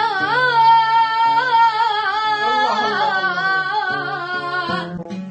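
A child singing one long, ornamented held phrase in an Iraqi song with wavering pitch over a steady instrumental accompaniment; the voice breaks off near the end.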